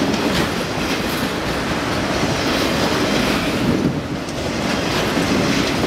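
Freight train of autorack cars passing close at speed: a steady noise of steel wheels rolling on the rails, with faint clicks.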